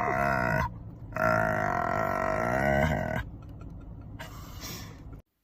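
An animal's long, drawn-out pitched calls: one ending about half a second in, and a second held steady from about a second in until about three seconds, followed by quieter sound.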